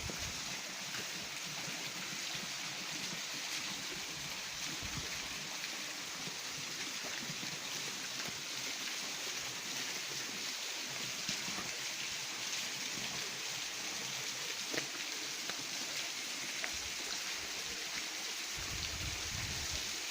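Running water from a stream, a steady rushing hiss that keeps an even level throughout.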